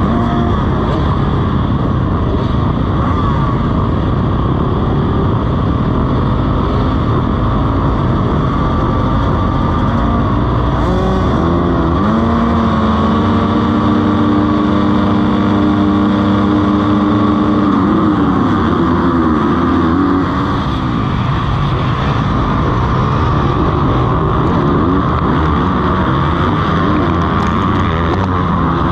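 Motocross bike engines racing, revving up and down through the gears. About twelve seconds in, one engine holds steady high revs for several seconds, then its revs drop and climb again.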